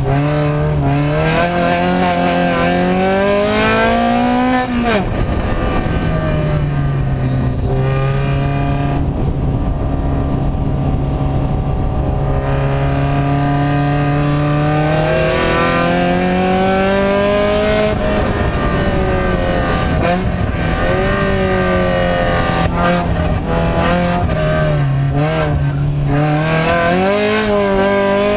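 Vehicle engine with an open, unsilenced exhaust running under load, its pitch repeatedly climbing and falling as it is revved. The pitch climbs for the first few seconds and drops sharply about five seconds in, then rises and falls again several times.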